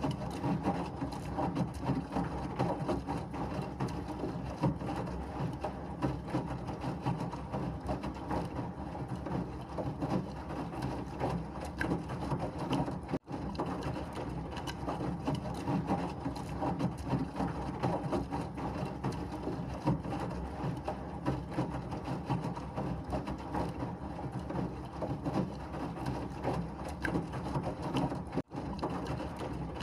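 Washing machine running: a steady, dense mechanical churning noise that briefly cuts out twice, about halfway through and near the end.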